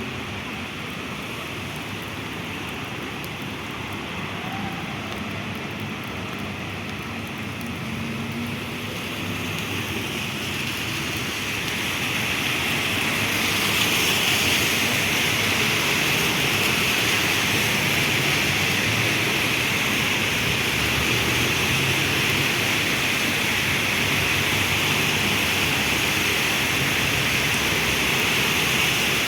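Heavy rain falling steadily, with an even hiss. Partway through it grows louder and brighter, then holds at the heavier level.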